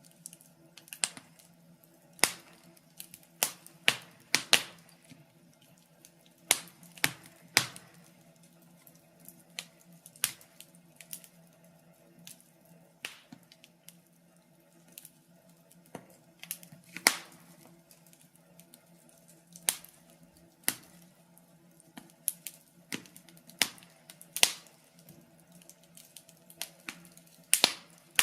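Wood fire in a fireplace crackling, with irregular sharp pops and snaps, some louder than others, over a faint steady hum.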